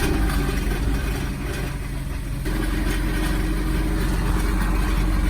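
Honda Step WGN engine running, dipping in level about a second in and picking back up about two and a half seconds in. The car has an abnormal noise that comes and goes with engine speed, which the mechanic takes to be in the muffler.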